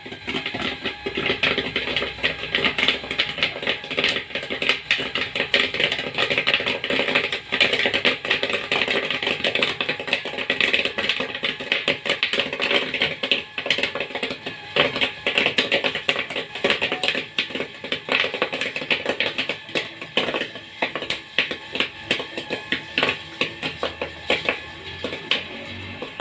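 Popcorn kernels popping rapidly in a popcorn machine's kettle, a dense, continuous run of sharp pops.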